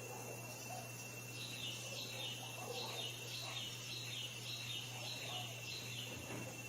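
A bird calling in a quick series of about ten short, high notes, each sliding downward, about two a second, then stopping. A steady thin high whine and a low hum run underneath.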